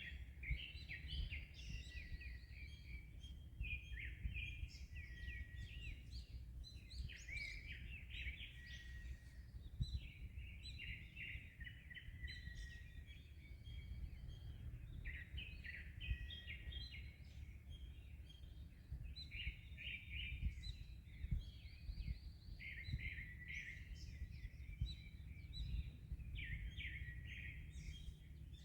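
Birds singing continuously, many rapid chirps and short trills overlapping, over a steady low rumble of wind and waves.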